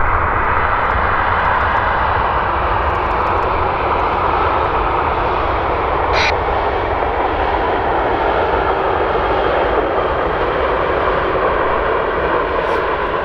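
Jet airliner engines heard close by as the aircraft arrives to land, a loud, steady jet noise with a low rumble underneath.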